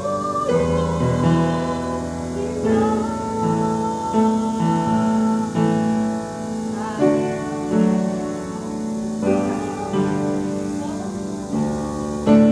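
Piano music with slow, held chords.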